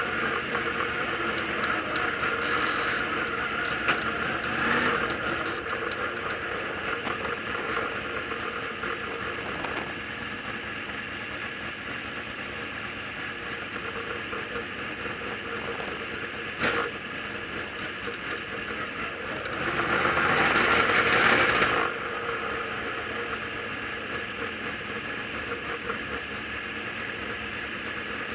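Dirt late model race car engine running steadily at low speed. About twenty seconds in it swells louder for a couple of seconds, and there is a single sharp knock a few seconds before that.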